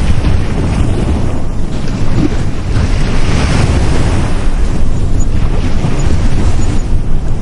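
Sea waves breaking and washing on a beach, a continuous surf rumble that swells and eases, with wind buffeting the microphone.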